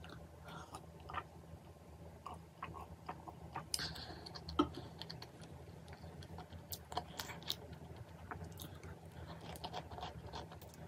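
A person chewing and eating, with many small, irregular mouth clicks; one sharper click comes a little before halfway.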